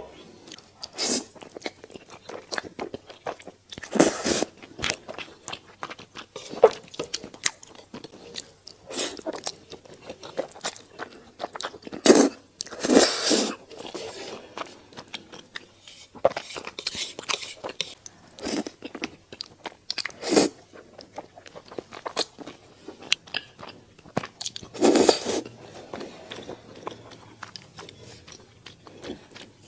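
Close-miked eating sounds: a person biting and chewing food in an irregular run of crunchy bites and chews, with a few louder bites spread through.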